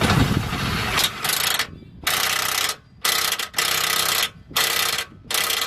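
Impact wrench running in short repeated bursts, about seven in a row, as it runs down the 21 mm lower control arm bolt.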